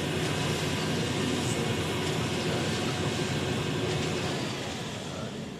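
Heavy truck engine running steadily, as on a concrete mixer truck, growing a little quieter near the end.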